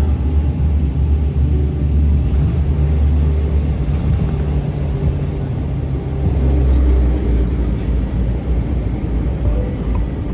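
Passenger airliner heard from inside the cabin: a loud, steady low rumble of engine and air noise, swelling slightly about two-thirds of the way through.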